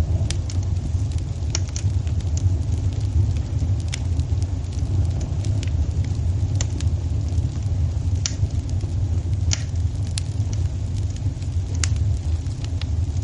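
Fireplace fire burning with a steady low rumble, broken by irregular sharp crackles and pops, about a dozen of them.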